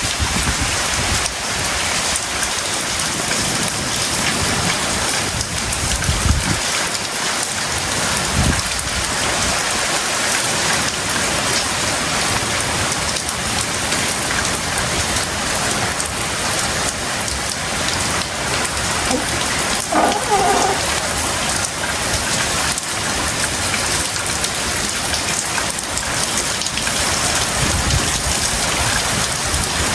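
Heavy tropical rain pouring down steadily, with a few low rumbles coming and going.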